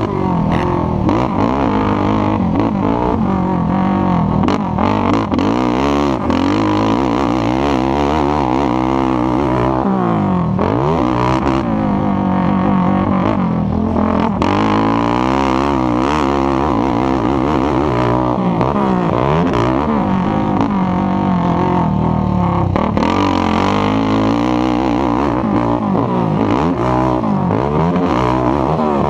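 Racing ATV engines revving hard and easing off over and over, their pitch rising and falling continuously, with more than one engine heard at once.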